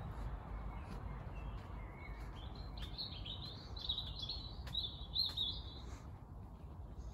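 A songbird singing a rapid, warbling phrase of high notes that starts about two and a half seconds in and lasts about three seconds. It sits over a steady low rumble and a few scattered sharp ticks.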